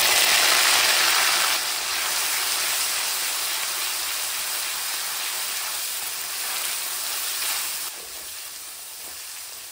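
Wet ginger, garlic and green chilli paste sizzling as it drops into hot mustard oil and cumin in a steel kadhai. The sizzle is loudest as the paste goes in, then settles to a steady frying hiss while it is stirred, and is quieter for the last couple of seconds.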